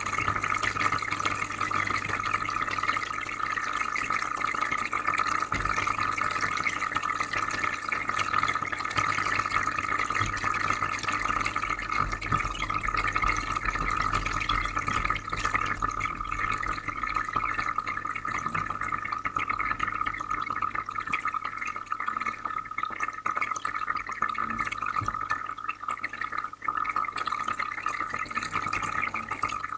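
Aquarium filter running steadily, with water trickling and bubbling into the tank and a constant low hum.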